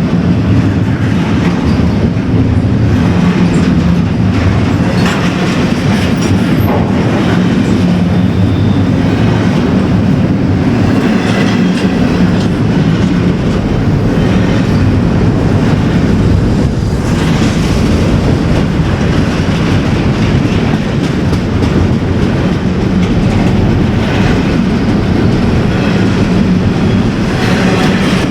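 A train rolling past close by: a loud, steady rumble with the wheels clacking repeatedly over rail joints.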